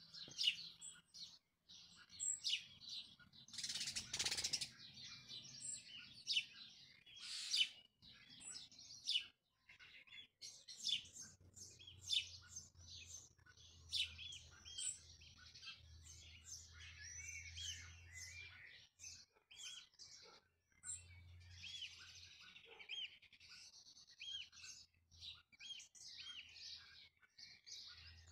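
Small birds chirping in many quick, short high calls throughout, with a brief louder rustle about four seconds in.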